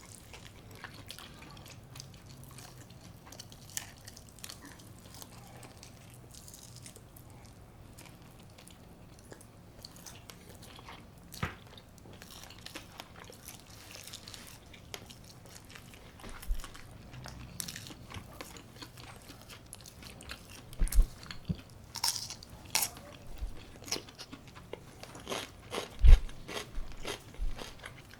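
Close-miked eating: chewing with crunchy bites of crisp-coated baked chicken. The bites are soft at first and grow louder and more frequent from about halfway in.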